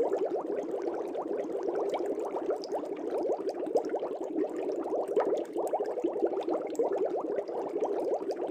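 Air bubbles streaming up through aquarium water, a dense, steady bubbling made of many quick little blips that each rise slightly in pitch.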